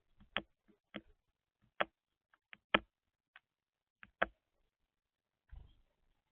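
Sharp, irregular taps and knocks of birds pecking at the feeder, about five loud ones among softer ticks, then a duller thump near the end.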